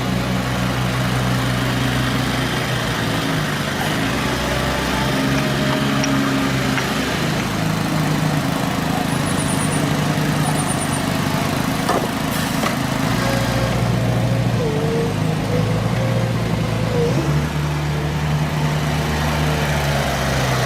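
Heavy road-construction machinery such as asphalt pavers and rollers, with their diesel engines running steadily. The engine note shifts abruptly every few seconds.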